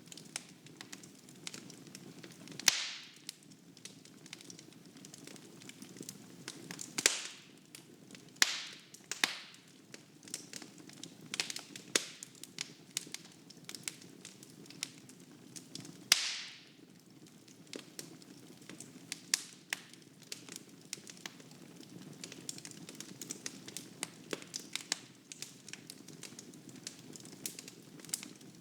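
Wood fire burning in a fireplace: a low steady rumble under continual crackling, with several louder pops from the burning logs.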